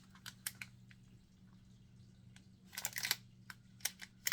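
Light crinkles and clicks of cosmetic packaging being handled, a few early on and a quick cluster about three seconds in, over a faint steady electrical hum.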